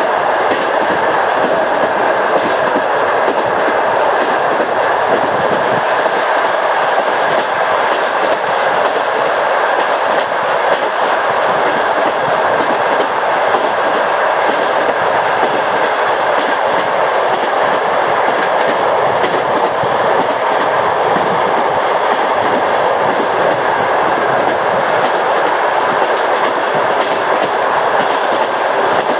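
Passenger train running at speed, its wheels clattering over the rail joints over a steady rolling noise.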